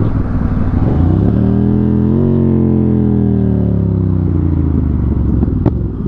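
Motorcycle engine pulling away, its pitch rising for about a second, then falling slowly as it rolls off and slows. A single sharp click near the end.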